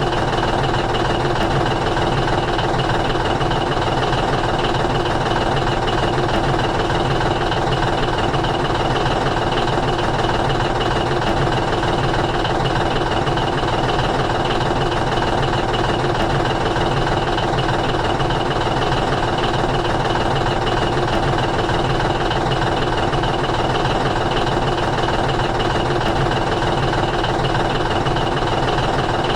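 An engine idling steadily, with no change in pitch or level.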